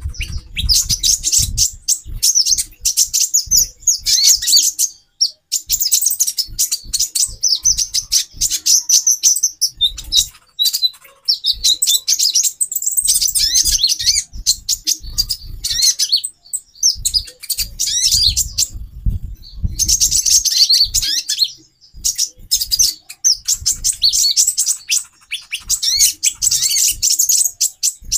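Several female konin (kolibri ninja) sunbirds calling together: a dense run of rapid, high, thin chirps and twitters with brief pauses, and faint low thumps underneath.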